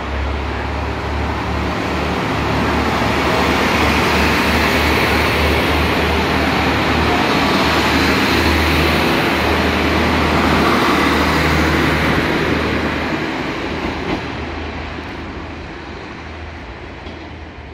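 Kashima Rinkai Railway diesel railcar running past, its engine hum and wheel noise growing louder over the first few seconds, then fading away in the last several seconds.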